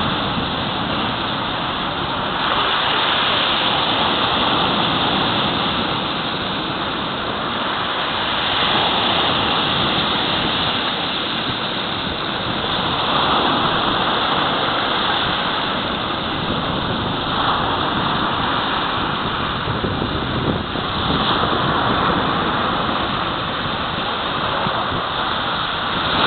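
Black Sea surf: waves breaking and washing on the shore in a steady rush that swells every four to five seconds.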